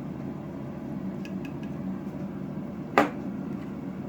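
Kitchen containers and utensils being handled: a few faint small ticks, then one sharp clink about three seconds in, over a steady low hum.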